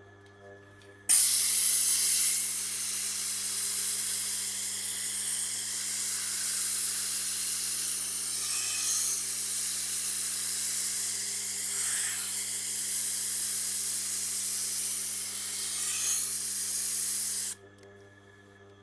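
Knife edge being ground on a Tormek's 320-grit wheel: a loud, even abrasive hiss that starts abruptly about a second in and stops abruptly near the end, with slight swells as the blade is moved along the wheel. A steady low motor hum runs underneath.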